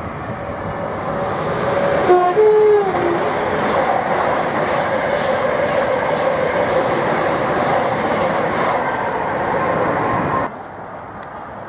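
Thameslink Class 700 electric multiple unit passing through the station at speed. A brief horn with stepping tones sounds about two seconds in, then the wheels and body of the train go by with a steady rush and rumble. The sound cuts off suddenly near the end.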